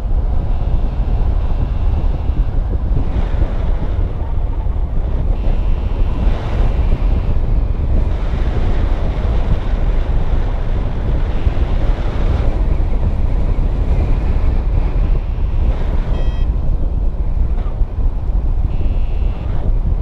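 Strong wind buffeting the microphone: a loud, steady low rumble with gusty swells.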